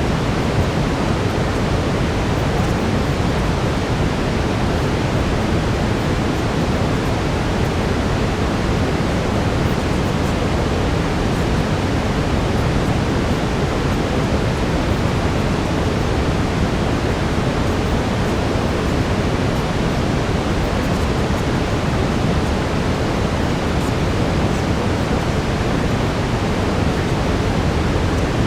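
Steady brown noise, a deep even hiss with most of its weight in the low end, unchanging throughout.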